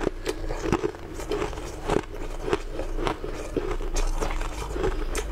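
Close-up chewing and crunching of a mouthful of shaved ice: crisp, irregular crunches, about two a second.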